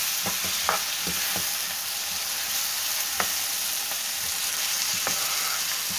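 Chopped tomatoes and onion-spice masala sizzling in hot oil in a non-stick frying pan, stirred with a spatula that scrapes and taps against the pan now and then, most often in the first second or so.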